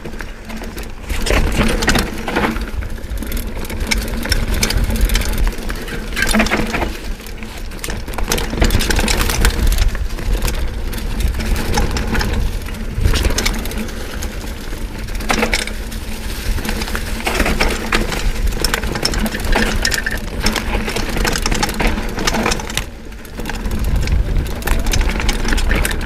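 Mountain bike being ridden down a dirt trail: wind buffeting the microphone with a heavy rumble, over tyre noise and the bike rattling and knocking on bumps.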